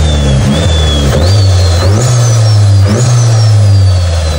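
Turbocharged car engine revved in short bursts. With each rev the turbo's high-pitched whistle jumps up sharply, three times, then slowly winds down.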